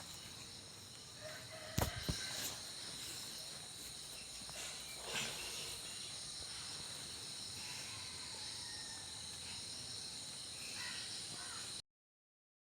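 Steady high-pitched chorus of insects, likely crickets, made of several even, unbroken tones. Two sharp knocks come about two seconds in and a fainter one about five seconds in. The sound cuts off abruptly shortly before the end.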